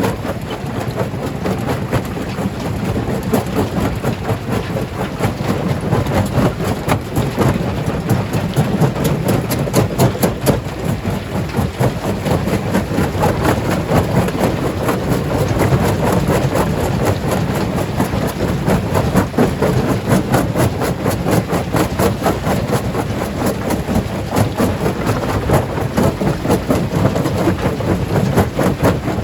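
Stone crusher breaking large rocks: a continuous heavy rumble packed with cracking and knocking of stone.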